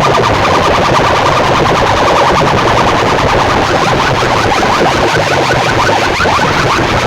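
Huge DJ sound-box rigs blasting at full volume: heavy bass under a dense, distorted wall of electronic effects, with quick repeated rising siren-like sweeps.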